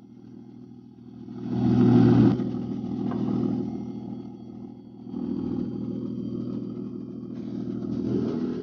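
An engine running steadily with a low hum, swelling louder about two seconds in and then easing back.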